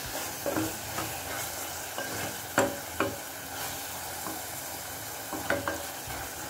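Jackfruit pieces in yogurt-and-onion masala sizzling in a pan while a wooden spatula stirs them, with a steady frying hiss and a few sharp scrapes and knocks of the spatula against the pan.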